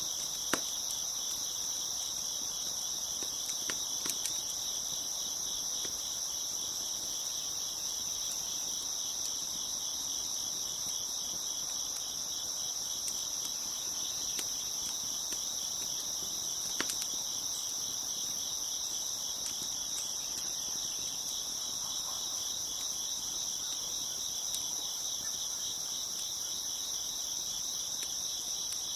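Crickets chirping in a steady, high, continuous chorus, with a few sharp pops from a crackling wood fire. The loudest pop comes about half a second in and another near the middle.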